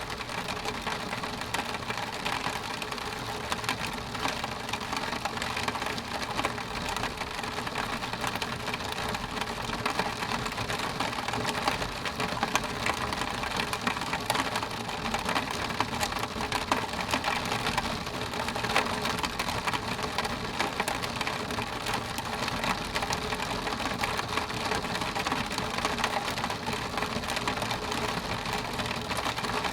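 Steady rain on window glass: a continuous hiss of drops with many small, close-spaced taps on the pane.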